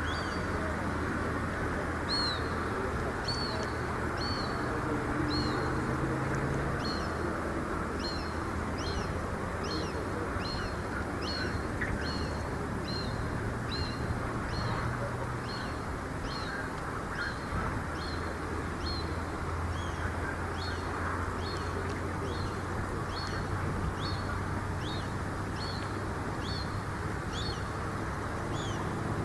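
A small bird repeating one short, high call a little more than once a second, over a steady low rumble of background noise.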